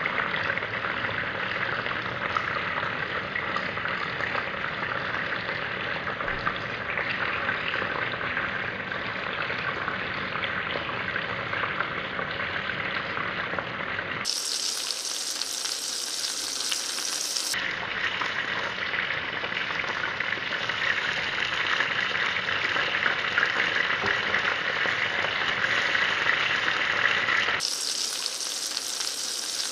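Meatballs frying, a steady sizzle that turns abruptly brighter and thinner for a few seconds around the middle and again near the end.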